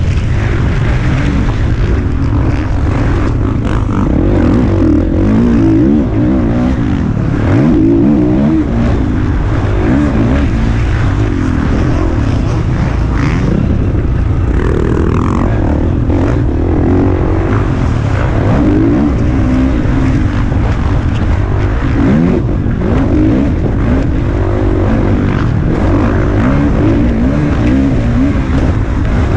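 Motocross bike engine heard from on board, revving up and dropping back over and over as it accelerates, shifts and slows for corners, over a constant low rumble.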